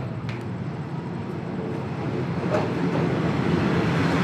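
Moving train running with a steady rumble that grows louder toward the end.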